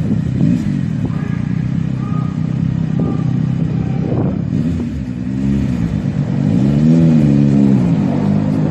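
Car engine running and revving, its note rising and falling twice in the second half.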